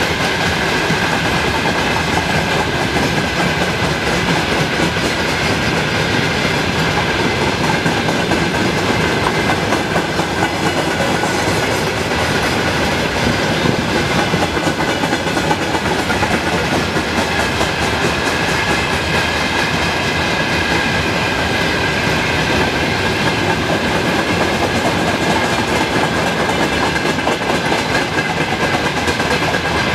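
Freight train of loaded hopper cars and boxcars rolling past at close range: steady loud rumble of steel wheels on the rails, with a steady high-pitched ring over it.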